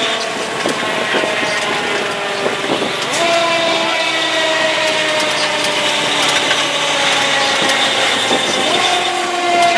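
Fire engine running with warning sounds on: held siren or horn tones that slowly sag in pitch and jump back up twice, over engine and road noise.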